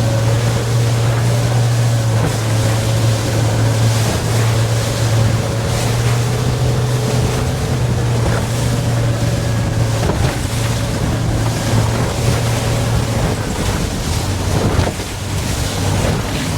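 Boat motor running under way with a steady low drone, over wind buffeting the microphone and the rush of water. Near the end the motor's note drops a little lower.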